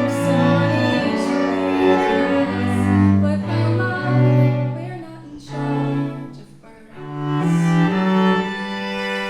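Music: a slow passage on bowed strings, with a cello line prominent in the low register. The sound fades briefly about six seconds in and swells again a second later.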